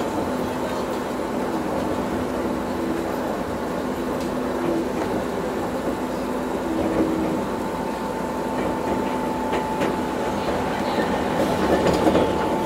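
Enoden electric train running slowly, heard from inside near the cab: steady running noise with a held hum. A few clicks of the wheels over rail joints and points come near the end.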